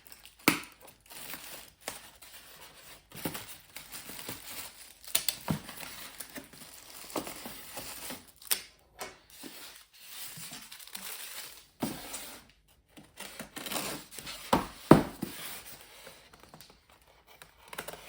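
Packaging of a boxed diecast model car being handled and opened: irregular crinkling, rustling and tearing with scattered knocks and clicks, the loudest knock about fifteen seconds in.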